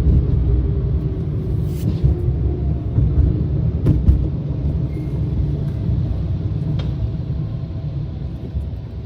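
Steady low rumble of a running vehicle, with a faint engine tone above it and a couple of short knocks about two and four seconds in.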